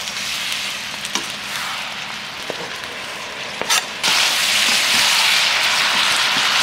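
Fried aubergine pieces in sauce sizzling in a wok-style pan as they are stirred with a wooden spatula, with a few light knocks of the spatula. The sizzling turns suddenly louder about four seconds in and stays that way.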